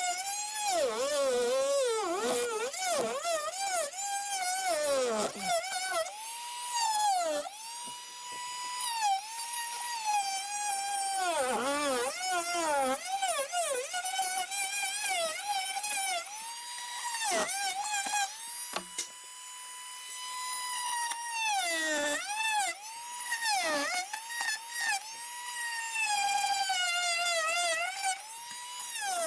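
Handheld power drill running in repeated trigger pulls, its motor whine climbing to a steady pitch, sagging as it works under load, and dropping away in several short stops.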